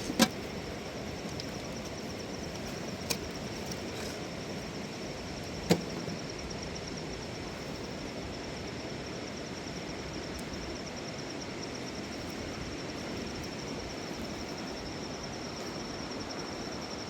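Steady rush of a flowing river with an insect trilling continuously at a high pitch over it. A few sharp clicks or snaps sound in the first six seconds.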